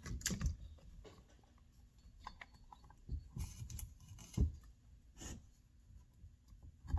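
Scattered light clicks and taps of small chainsaw parts being handled and fitted by hand during reassembly, with a few sharper knocks about three, four and five seconds in.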